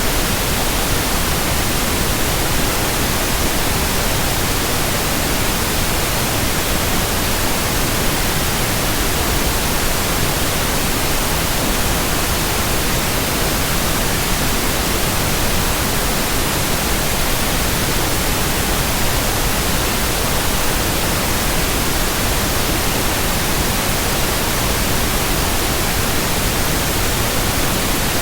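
Steady white noise: an even, unchanging hiss across all pitches, with no hum, swish or rhythm of turning blades.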